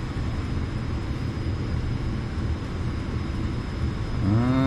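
Gas furnace's draft inducer motor running with a steady hum. A brief rising tone comes near the end.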